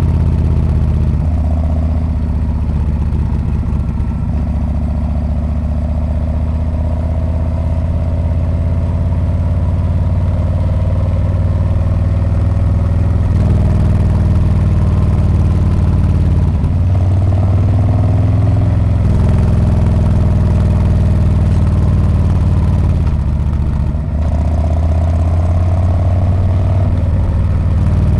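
Harley-Davidson Street Bob's V-twin engine running through its exhaust, a steady low note whose pitch shifts up and down several times, around the middle and again near the end.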